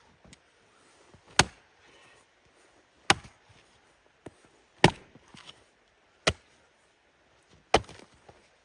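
Wood being chopped: five sharp strikes, evenly spaced about a second and a half apart.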